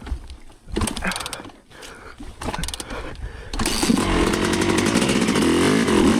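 Dirt bike engine after some scattered rustles and knocks; about halfway in it comes in loud and revs high, its pitch wavering up and down.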